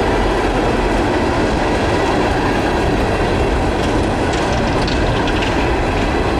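Herzog ballast hopper cars of a Norfolk Southern freight train rolling past, a steady loud rumble of steel wheels on the rails, with a faint high squeal about four to five seconds in.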